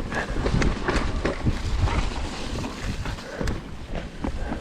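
Mountain bike rattling along a wet, muddy trail: a steady low rumble of tyres and wind on the microphone, with frequent knocks and clicks from the bike over bumps.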